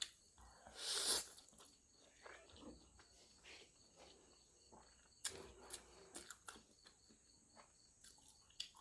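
Eating sounds: a short slurp about a second in, then scattered wet chewing and crunching clicks, clustered around the middle. A faint, evenly pulsing insect chirp runs underneath.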